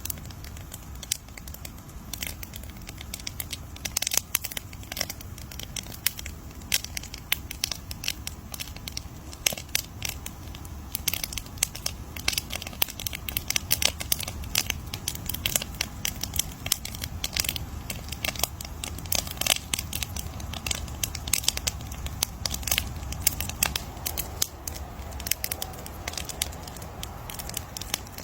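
Wood fire crackling, with many irregular sharp pops and snaps over a low steady rumble of the flames.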